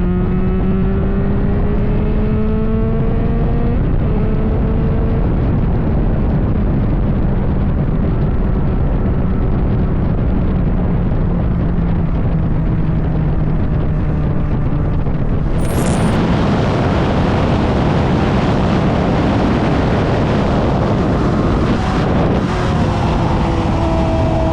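Motorcycle engine accelerating, its pitch climbing and then dropping at a gear change, under a loud rushing noise that grows louder and brighter about two-thirds of the way in.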